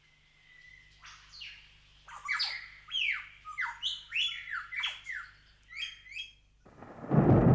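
Bird calls in the rainforest: a quick run of loud, sharp notes that sweep downward in pitch, repeated over several seconds. Near the end a loud, low swell of music comes in.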